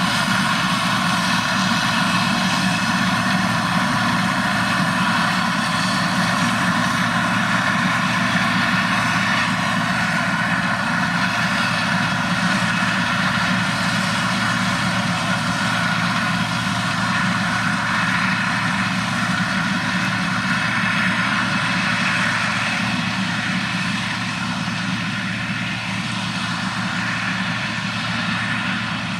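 Large farm machine's diesel engine running steadily under way, a continuous heavy hum with a hiss above it, easing slightly over the last few seconds.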